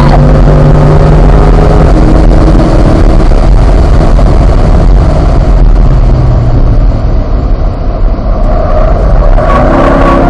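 Car engine inside the cabin pulling hard near the top of fourth gear, with an upshift about two seconds in. The driver then lifts off and brakes hard, and the engine note fades into wind and road noise. The engine comes back on power near the end.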